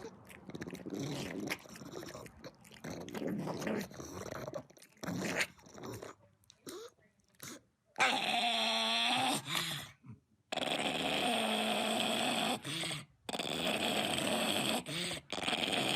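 A dog making growling and whining sounds, broken by several sudden stops and starts.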